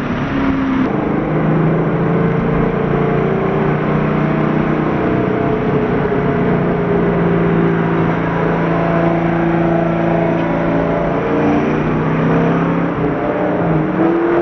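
Twin-turbo V8 of a Chevrolet Camaro SS under way, heard from inside the car over road noise. Its note climbs slowly and evenly for most of the stretch, drops and shifts near the end, then starts to rise again.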